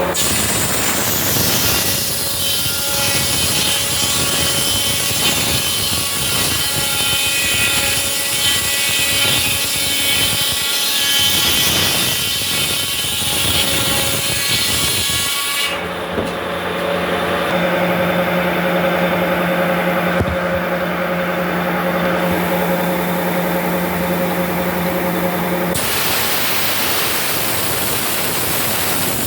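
Sawmill saw running and cutting through wood, a dense high cutting noise over the machine's steady hum. About halfway through the cutting noise stops abruptly, leaving the machine's hum, and it starts again near the end.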